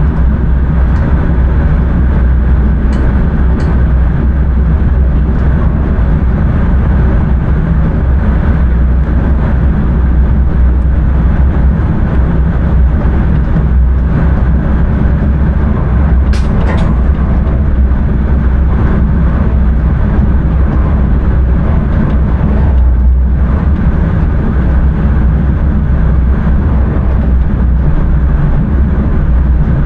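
Steady low rumble of an intercity train running along the line, heard from inside the driver's cab, with a few brief sharp clicks.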